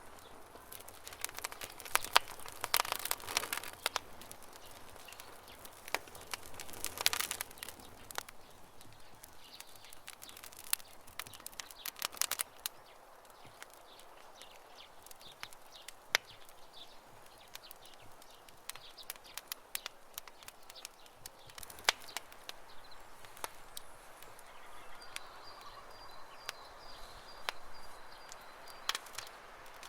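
Campfire crackling and popping, with sharp snaps scattered throughout and denser bursts of crackle a few seconds in and again around seven seconds. Birds chirp faintly in the background.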